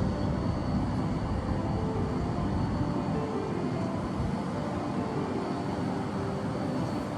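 Steady low outdoor rumble that holds level throughout, with a faint thin high tone above it.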